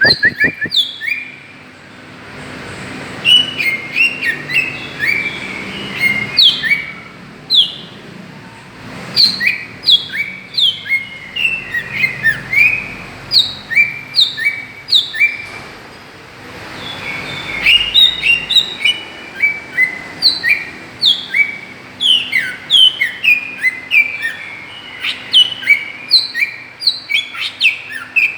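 Greater green leafbird (cucak ijo) singing: quick runs of short, sharp whistled notes sliding up and down, in phrases broken by a few short pauses.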